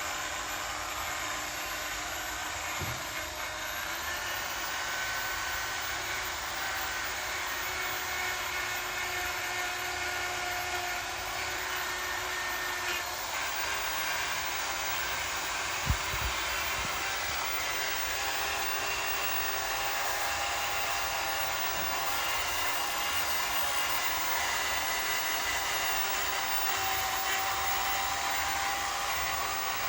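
Handheld electric sanding and polishing machine running steadily on a headlight lens, with a whine whose pitch shifts a little a few times as it is worked. A single short knock about halfway through.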